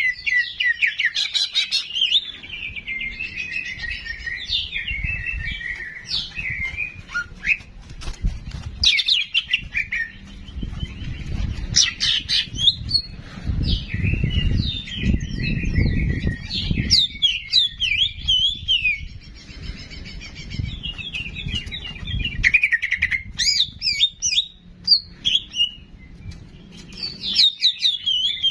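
Ki jenggot songbird singing in a steady stream of fast, chattering chirps and trills, played as a masteran song-tutor recording. A low rumble runs under the song for a few seconds in the middle.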